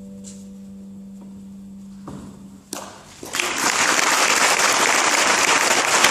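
The last low note of a harp rings on and dies away, then about three seconds in a few claps break out and swell into steady audience applause.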